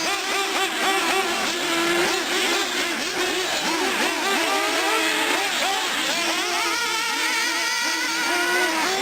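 Several nitro R/C cars' small two-stroke glow engines revving up and down together as they run around the track, their overlapping pitches constantly rising and falling.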